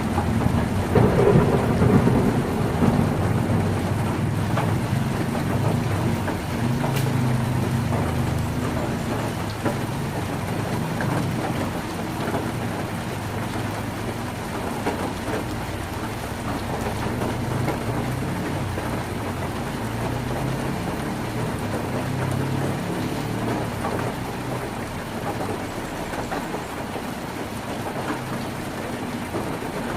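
Heavy rain drumming steadily on a tin roof, with thunder rumbling loudest about the first couple of seconds and then dying down to a low background roll.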